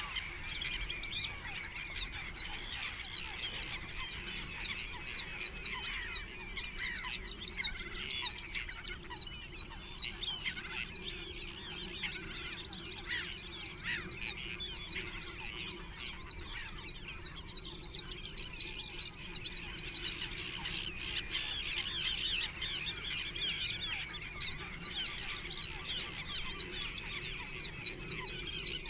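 Birds calling continuously: many short, high chirps overlapping in a dense chorus.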